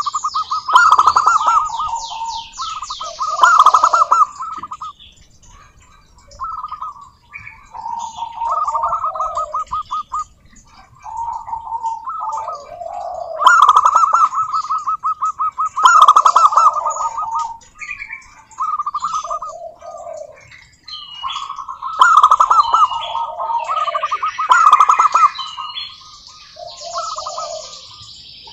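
Zebra doves singing: repeated phrases of rapid staccato cooing notes, each lasting a second or two with short pauses between, several phrases overlapping at times. Higher-pitched rapid chirping comes in over some of the phrases.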